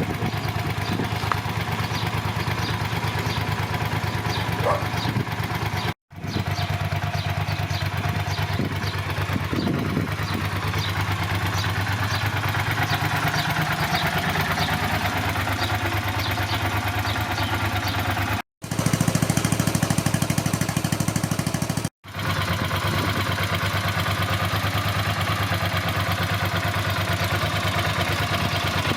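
Ducati Monster 400 S's air-cooled L-twin engine idling steadily. Three brief dropouts break it, and it is louder for a few seconds past the middle.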